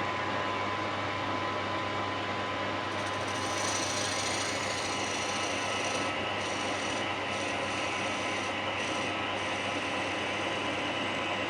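Workshop lathe running steadily with a hum, while a tool rubs against the spinning wooden cue from about three seconds in, with a few short breaks.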